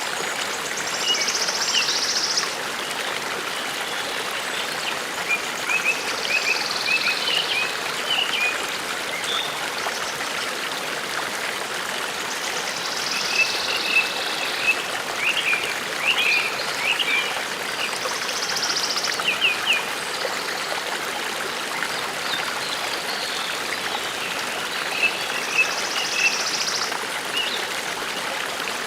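Forest brook babbling steadily. A bird sings a short high phrase about every six seconds.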